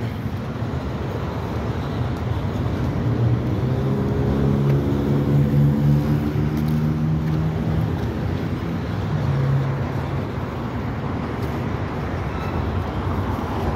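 Steady rumble of a freight train's cars rolling past, mixed with road traffic. A motor vehicle's engine hum swells and passes from about four to ten seconds in, the loudest part.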